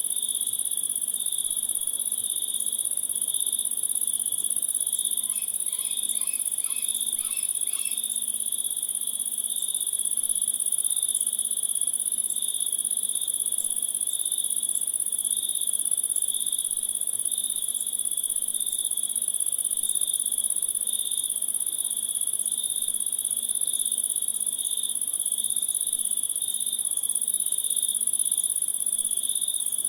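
Chorus of crickets and other insects: a steady high-pitched trill over a lower, rapidly pulsing chirp. About five seconds in, a short run of about five quick repeated notes sounds over it.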